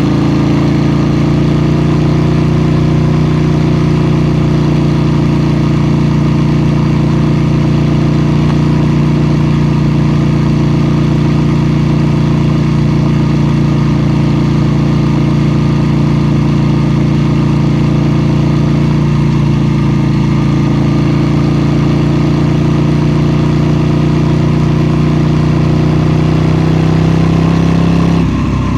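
KTM 790 Duke's 799 cc parallel-twin engine running at steady revs while the bike is ridden, heard from on board. The engine note holds almost the same pitch throughout and breaks off briefly near the end.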